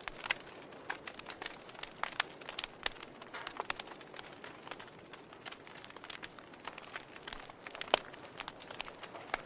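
Campfire crackling: irregular sharp pops and snaps of burning wood over a faint steady hiss, with one louder pop near the end.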